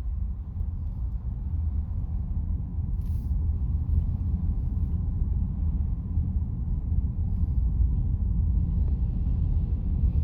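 Low road rumble heard inside a car's cabin as the car pulls away from a traffic light, growing louder over the first few seconds as it gains speed, then holding steady.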